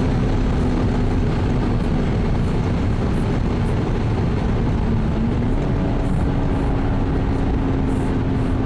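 Toyota Supra MK4's twin-turbo 2JZ-GTE straight-six running at a steady pace, with road and wind noise. The engine tone holds steady and steps up slightly about five and a half seconds in.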